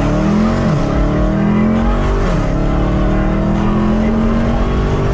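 Mopar muscle car engine accelerating hard, heard from inside the cabin: the pitch climbs, drops sharply at an upshift less than a second in and again at about two and a half seconds, then climbs slowly again in the higher gear.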